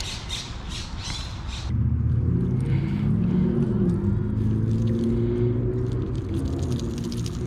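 A quick run of clicks, then about two seconds in a low engine rumble starts, with several slowly shifting tones, like a motor vehicle going by.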